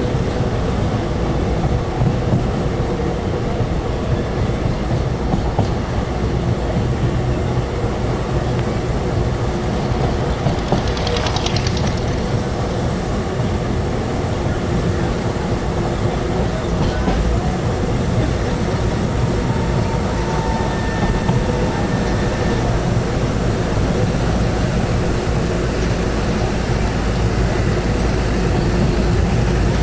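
Passenger train running at speed, heard from inside a coach at the window: a steady rumble of wheels on the track.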